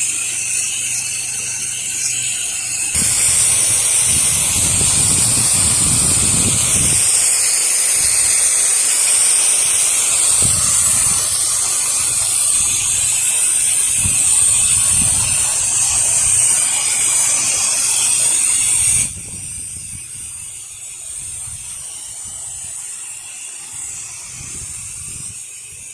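Pressure washer running and spraying a low-pressure rinse through an X-Jet M5 nozzle: a steady hiss of water spray. It gets louder about three seconds in and drops off sharply about nineteen seconds in, leaving a quieter hiss.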